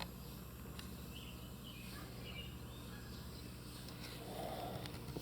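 Birds chirping in a few short, faint calls about two seconds in, over a steady low hum.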